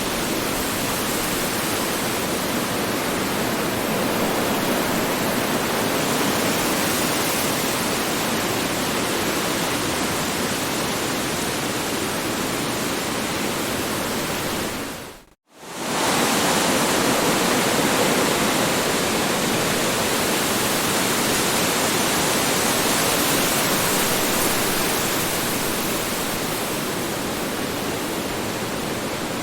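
Strong wind blowing steadily, a dense rushing noise with slow swells. About halfway through it drops out for a moment and returns at once, like the seam of a looped recording.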